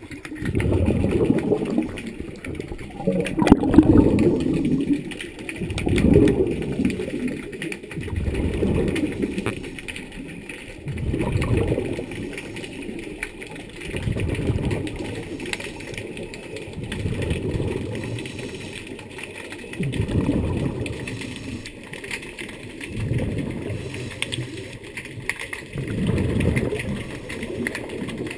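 A scuba diver breathing through a regulator, heard underwater: a rumble of exhaled bubbles swells and fades about every three seconds, in an even breathing rhythm.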